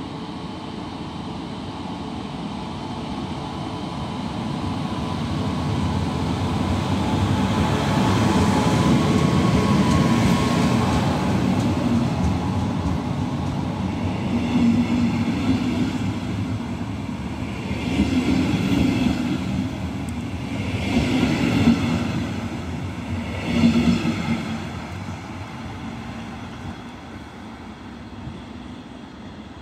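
Electric-locomotive-hauled regional train of double-deck coaches passing close by at speed. Its running noise builds to a peak as the locomotive goes by. Louder pulses of wheel clatter follow about every three seconds as each coach's bogies pass, and then the sound fades as the train runs away.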